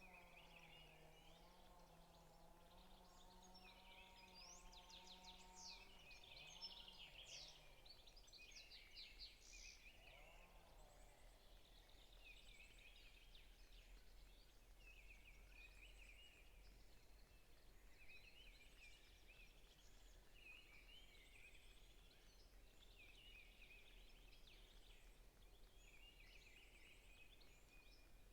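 Faint chorus of forest songbirds chirping and trilling, many short overlapping calls. A low steady hum lies under them for the first six seconds, then stops.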